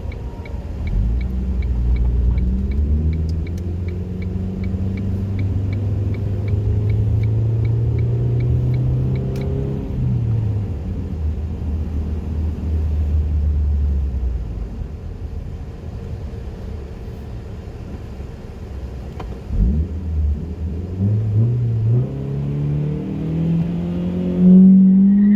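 2004 Ford Focus SE's 2.0 Zetec inline-four, running through an FSWerks race header, 2.5-inch downpipe and stealth exhaust, pulling up through the revs. The pitch rises in the first few seconds, drops about ten seconds in, stays lower and quieter for a while, then climbs again and is loudest near the end.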